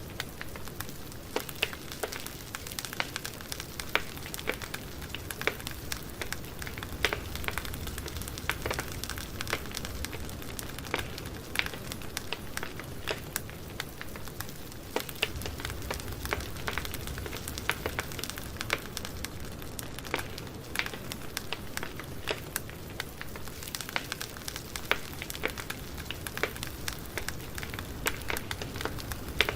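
Campfire burning, with a steady hiss and many sharp, irregular crackles and pops from the burning wood.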